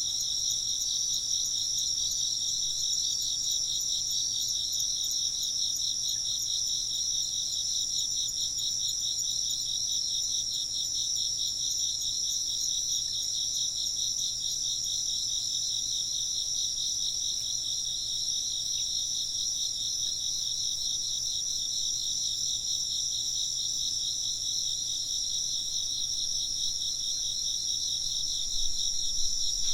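Insects chirping in a steady, dense, high-pitched trill with a fast pulse, pitched in two close bands as if from more than one singer.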